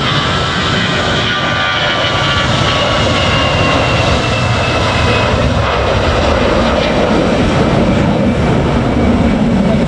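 Airbus A320 jet airliner taking off, its engines at high power: a loud, steady jet rumble with a high whine that slowly falls in pitch.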